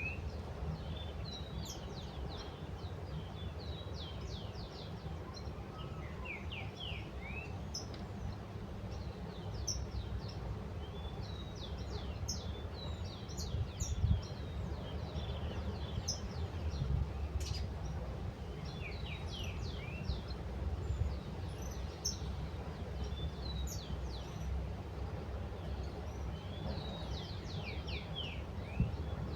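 Small birds chirping in quick runs of high, falling notes every few seconds, over a steady low rumble.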